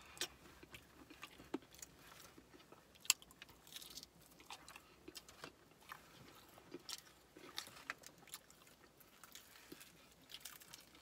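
Close-up chewing and biting of crispy fried chicken: soft, irregular crunches and mouth clicks, the sharpest about three seconds in.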